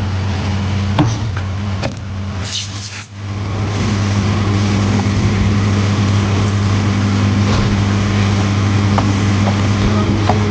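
A steady machine hum with a hiss, dipping briefly about three seconds in, with a few light clicks.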